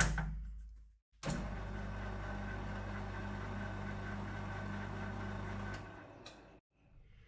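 Metal lathe running steadily with a rough casting held in its 4-jaw chuck, the spindle turning it so it can be checked for running true; the motor stops and winds down near the end. A knock at the start dies away within the first second.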